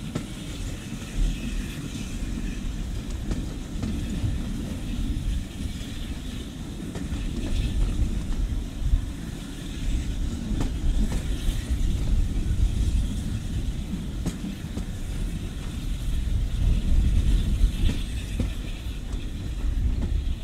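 Steam-hauled passenger train's carriages rumbling along the track, heard from an open carriage window, with a few sharp clicks of wheels over the rail joints.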